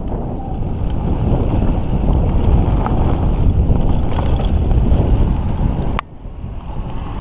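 Wind buffeting the microphone and tyre rumble from a mountain bike rolling along the trail, a dense low rushing noise that drops away abruptly about six seconds in.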